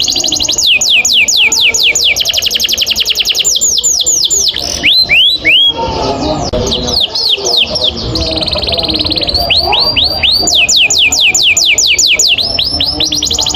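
Domestic canary singing long rolling trills: fast runs of repeated, downward-sweeping whistled notes that change speed and pitch several times, with a slower, choppier passage about five seconds in and a brief buzzing trill around nine seconds.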